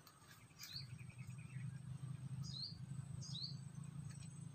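Small birds calling: three short, matching chirps that dip and then rise, and a brief twittering trill near the start, over a low steady rumble.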